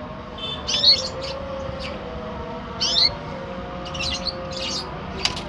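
Canary giving short, sharp chirps, a few calls spaced about a second apart, over a faint steady hum.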